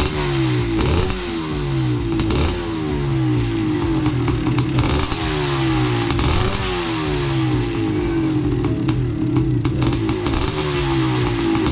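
1986 Husqvarna 400 XC two-stroke engine running, blipped repeatedly about once a second with the revs falling back after each, with some clattering. It has just been restored and its carburetor cleaned, and it is running pretty decently.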